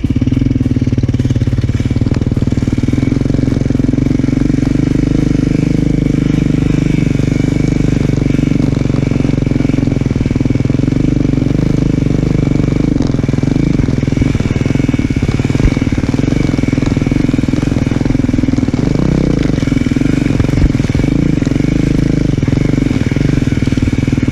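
Dirt bike engine running loud and close at a fairly steady speed under way on a trail, its pitch wavering only slightly.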